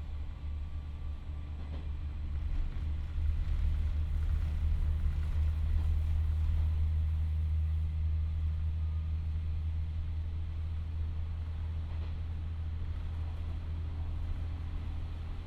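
KiHa 40-series diesel railcar running along the line: a steady low engine and running drone that builds about two to three seconds in, then holds and eases slightly.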